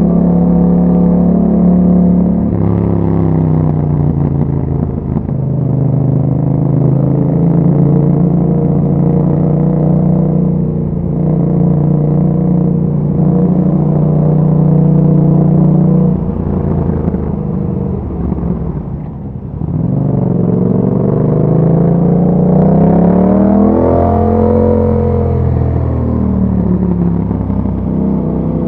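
Yamaha MT-07's parallel-twin engine running through an Akrapovic exhaust, heard on board while riding. It holds a steady cruising note for the first half. Near the middle the throttle comes off and the note and loudness drop, then the engine revs up in a rising pitch before easing back and settling.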